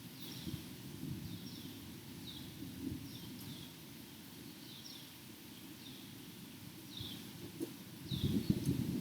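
Thunderstorm: a steady low rumble of rain and distant thunder, with a louder roll of thunder building about eight seconds in. Over it a bird repeats short falling chirps about once a second.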